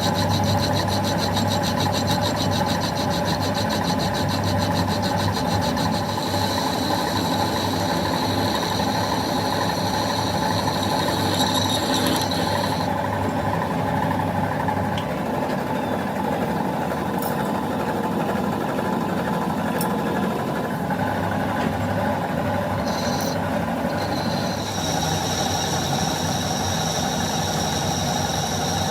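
Workshop machinery running steadily with a low hum, under a high whine that stops about thirteen seconds in and comes back near the end.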